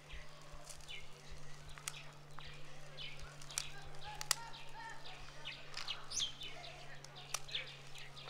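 Birds chirping in short, repeated calls over a steady low hum, with a few sharp clicks.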